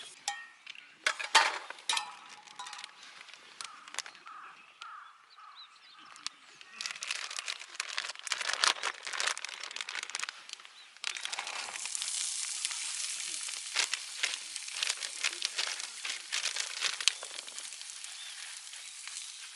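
Crinkling and clicking handling noises, then a steady sizzle that starts abruptly about eleven seconds in: food frying in a hot pan.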